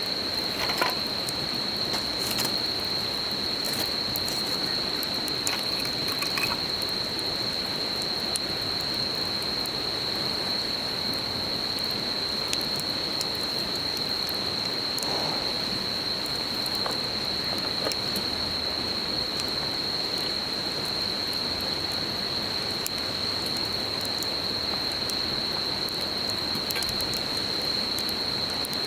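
Insects trilling in one steady, unbroken high note over the even rush of a babbling river, with the occasional crackle and pop of a wood campfire, more frequent in the first few seconds.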